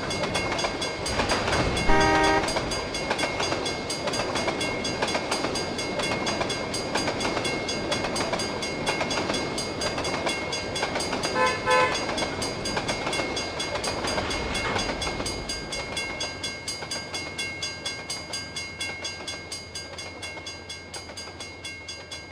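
Canadian Pacific freight train rolling past, its wheels clicking steadily over the rail joints, with a short horn blast about two seconds in and another, shorter one about twelve seconds in. The sound fades toward the end as the train moves away.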